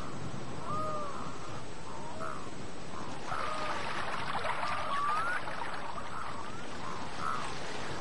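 A bird calling again and again in short whistled notes, some arching and some rising, over a steady background hiss.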